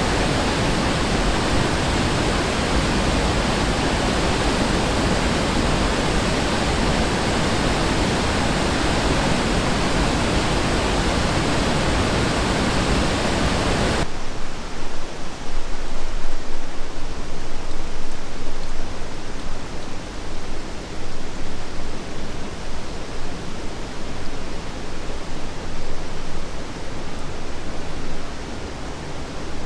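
Steady, loud rushing of whitewater or a waterfall in the river gorge. About halfway through it switches abruptly to a duller, more uneven rush of water.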